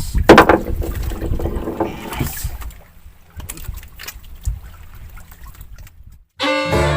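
Noise aboard a small fishing boat at sea: wind on the microphone, water, and sharp knocks and clatter, loudest in the first couple of seconds and then quieter. The sound cuts out briefly near the end and background music begins.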